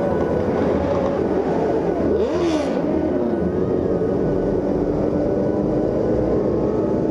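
Motorcycle engines running along a road in a group ride. About two seconds in, one engine revs up and back down, with a brief rush of hiss at the same time.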